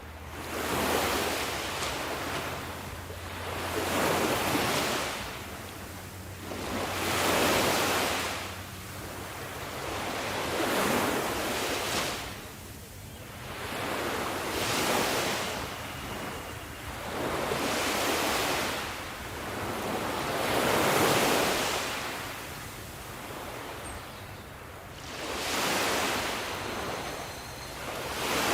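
Sea waves breaking on a shore, one wave washing in and drawing back about every three to four seconds.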